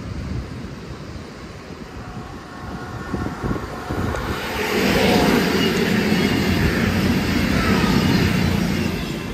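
CrossCountry Voyager diesel multiple unit passing close by, its underfloor diesel engines and wheels on the rails building up from about a third of the way in, loudest as it goes past, then easing off near the end.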